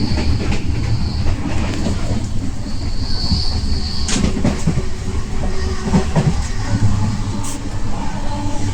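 Moving passenger train heard from inside the coach: a steady low rumble from the running gear with scattered rattles and knocks, and an on-and-off high hiss in the first few seconds.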